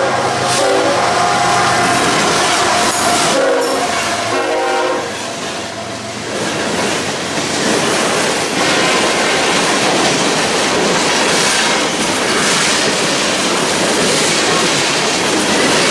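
Train horn sounding a chord that stops about three seconds in, followed by a second short blast, then the steady rumble and clatter of train wheels rolling over the rails.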